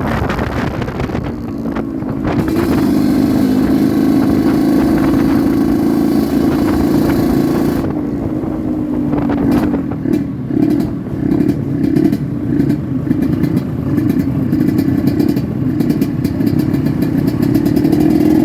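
Yamaha RX-King 135cc two-stroke single-cylinder motorcycle engine running while being ridden. Its note holds steady at first, then rises and falls repeatedly through the second half.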